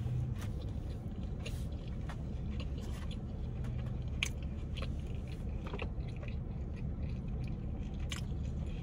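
A person chewing food, with scattered small crunches and mouth clicks over a steady low hum.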